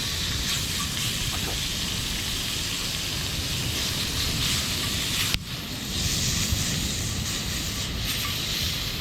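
Steady hissing, rushing noise at an even level, broken by an abrupt cut about five and a half seconds in, after which it carries on.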